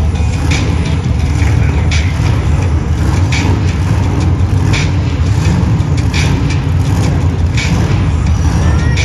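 Monster truck engine rumbling loudly and steadily in an arena, with a short sharp hit about every second and a half.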